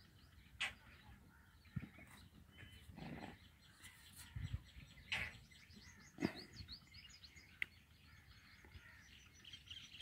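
Faint high bird chirps, a quick run of them about five to seven seconds in, with scattered soft knocks and rustles.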